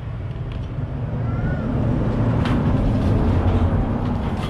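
An engine running with a low rumble, growing louder over the first couple of seconds and easing slightly near the end.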